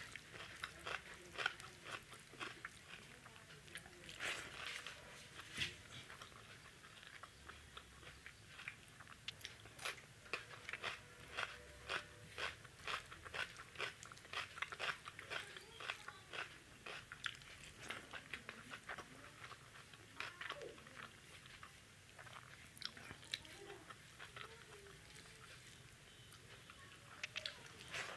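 A person chewing mouthfuls of rice, dal and vegetables eaten by hand, heard as a quick run of small crunchy clicks. The clicks are densest through the middle and thin out later.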